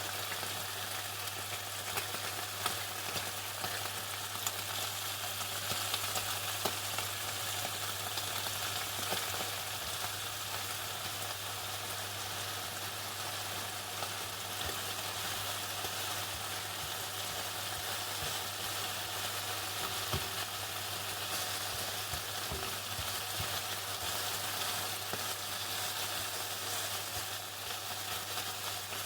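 Chicken frying in hot oil: a steady, dense crackle and sizzle, like falling rain, with a low steady hum underneath.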